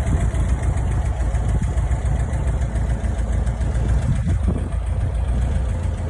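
1968 VW Beetle's 2109 cc air-cooled flat-four boxer engine idling steadily with a deep, even beat.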